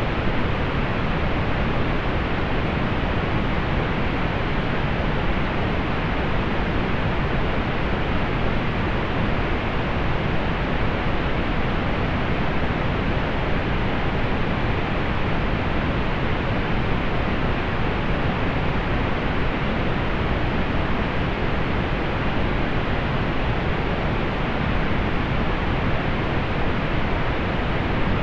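Steady synthetic pink noise: an even, unchanging hiss, heavier in the low end and rolled off in the highs.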